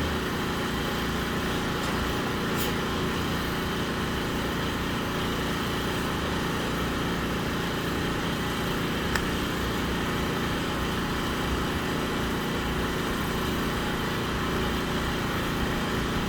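A small engine running steadily with an even drone, and a couple of faint clicks.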